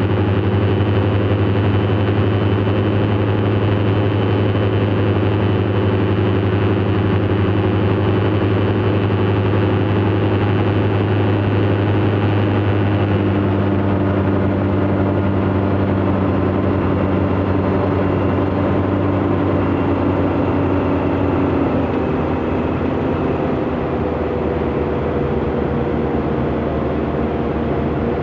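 Light propeller aircraft's piston engine running steadily. Its pitch drops a little about a dozen seconds in, and again at around 22 seconds, when it also gets slightly quieter.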